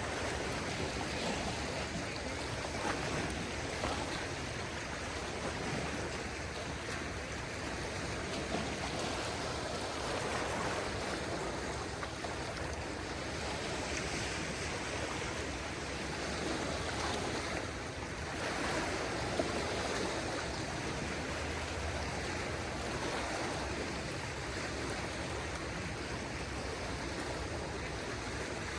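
Small waves of a calm sea washing steadily on a beach, in a continuous wash of water that swells gently every few seconds.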